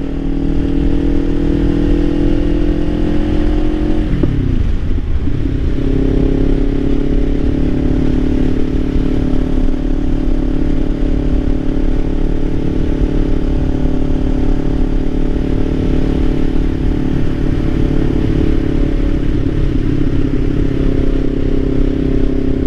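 Kawasaki Ninja 500's parallel-twin engine under way, revs climbing slowly, dropping sharply about four seconds in with an upshift, then holding a steady cruise.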